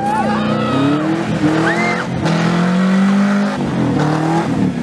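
Subaru Legacy Outback's EJ22 flat-four engine, with unequal-length headers and the axle-back exhaust section removed, revving hard in repeated pulls as the car slides around on snow. The revs climb, hold and ease off several times.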